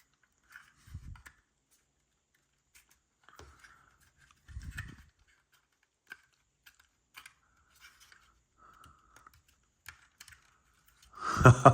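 Plastic building-block pieces being handled and pressed together: scattered light clicks and taps, with a soft thump about a second in and another at about four and a half seconds.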